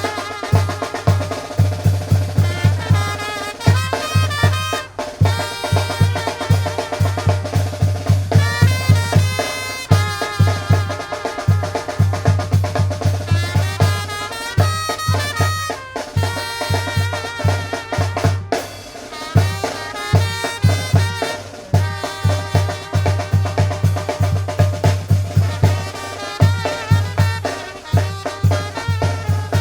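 Tamborazo band music: a brass melody over a steady beat of bass drum and snare.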